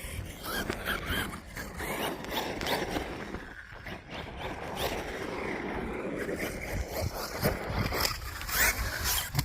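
Team Corally Kagama electric RC stunt truck driving on loose dirt. The motor whines up and down in pitch as the throttle is worked, with tyres scrabbling and gravel scraping underneath, and steady low wind noise on the microphone.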